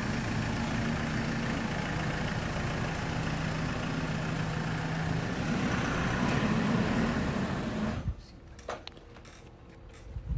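Diesel engine of a 2014 Mitsubishi Fuso FE180 truck running steadily, a little louder after about five seconds, then cutting off abruptly about eight seconds in.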